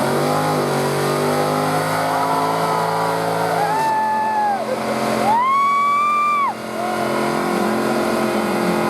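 Car engine held at high revs during a burnout, its pitch steady. Two long high squeals come about four and five and a half seconds in, and afterwards the engine settles to a lower pitch.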